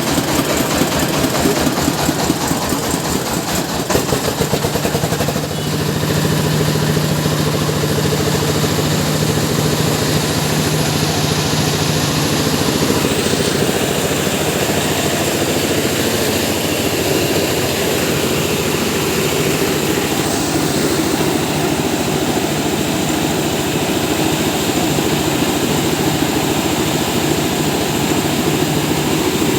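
Mobile rice mill running: its engine and milling machinery make a loud, steady mechanical noise. About five seconds in the sound changes and settles into a steady low hum.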